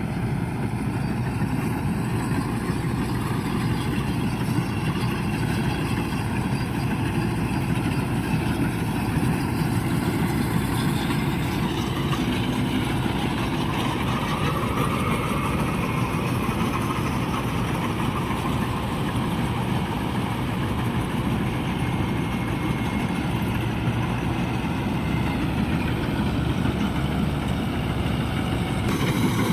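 Diesel engine of a Mahindra Novo 655 DI 4WD tractor set up as a Balkar combine harvester, running steadily.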